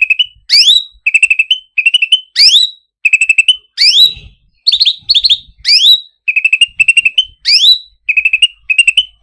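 Cucak ranting songbird singing: a rapid trill of short whistled notes followed by a quick upward-sweeping whistle, the phrase repeated over and over about every two seconds.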